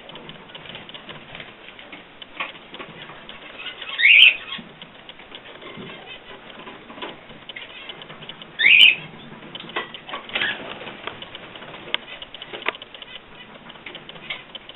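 Pet birds: two loud short chirps about four and a half seconds apart, with a few fainter calls, wing flutters, rustling and small clicks between them.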